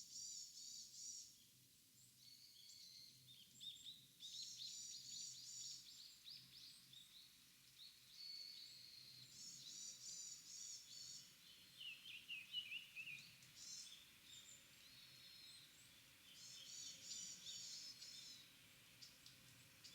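Small songbirds calling in short high chattering phrases that recur every few seconds, with a brief run of falling notes about twelve seconds in, over a faint steady forest background.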